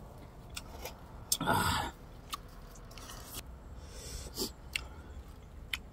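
Mouth sounds of a person eating food dipped in sauce: chewing and lip smacks with scattered sharp clicks, and one louder noisy burst about a second and a half in.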